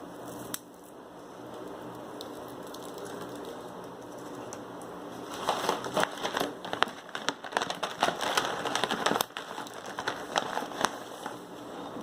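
Plastic snack packaging crinkling and crackling as it is handled, in a dense irregular run for a few seconds in the middle, over a steady background hiss.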